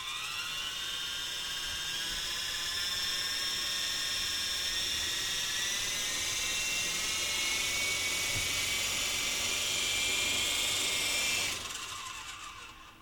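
Small electric motors of a toy radio-controlled helicopter running with a high-pitched whine, rising in pitch as the rotors spin up at the start, then holding steady. About a second and a half before the end the motor cuts off and the whine winds down.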